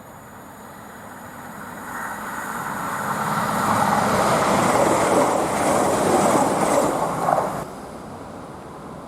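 A train passing on the line. The rolling noise of wheels on rails grows louder over a few seconds, then drops away abruptly near the end.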